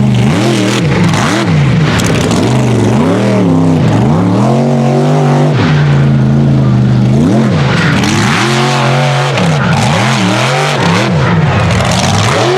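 Unlimited-class mega truck engine revving hard, its pitch climbing and dropping again and again as the throttle is worked on and off, with a longer held rev about five seconds in.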